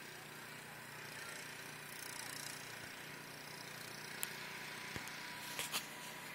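Faint steady outdoor background noise with a low hum, broken by a few small clicks and knocks from the phone being handled, about four and five seconds in and again just before the end.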